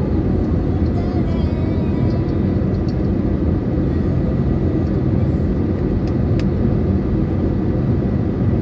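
Steady cabin drone of an Airbus A320neo with CFM LEAP-1A engines, heard from a window seat: an even, unbroken rumble of engine and airflow noise.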